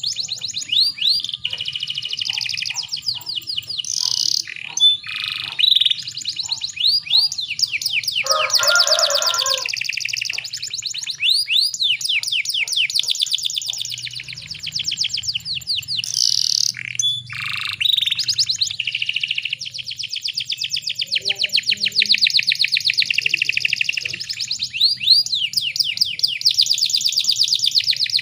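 Domestic canary singing continuously in long, fast trills and rolls, with a short harsh rasping phrase about eight seconds in. It is a canary lure recording, meant to set other canaries singing.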